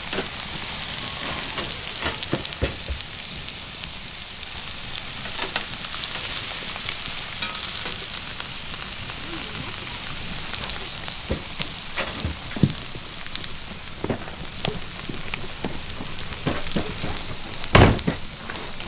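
Asparagus and potatoes frying in cast-iron skillets over a campfire: a steady sizzle dotted with small pops and crackles, and a louder knock near the end.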